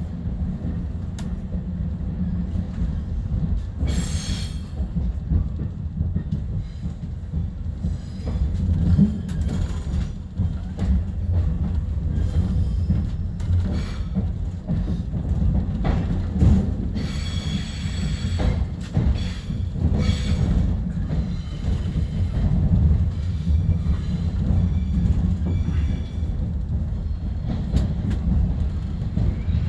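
Long Island Rail Road M3 electric multiple-unit train running, heard from on board: a steady low rumble of wheels on rail with scattered clicks. A brief high wheel squeal comes about four seconds in, and a longer stretch of squealing comes around seventeen to twenty-one seconds in.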